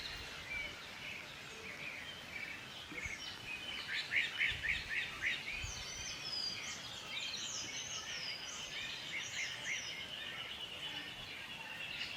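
Birds singing and calling, several at once: a quick run of chirps about four seconds in, high down-slurred whistles, and a long high trill through the second half.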